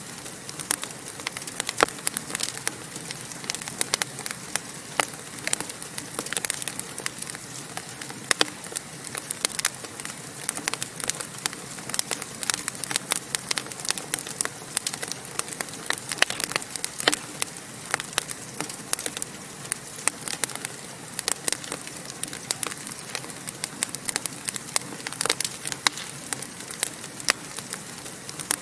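Wood fire burning in a fireplace: a steady soft hiss with frequent irregular sharp crackles and pops.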